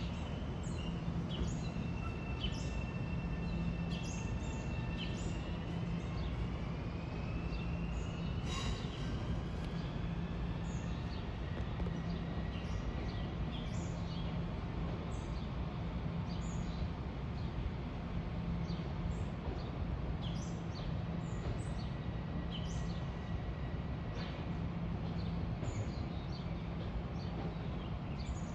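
Birds chirping in short, scattered calls over a steady low hum, with a faint whine that rises in pitch from about five to nine seconds in.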